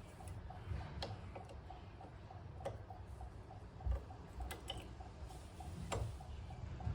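A few sharp metal clicks and clinks from hand-tool work on an ATV rear axle, pliers bending a cotter pin at the axle nut, over a steady fast ticking about four times a second.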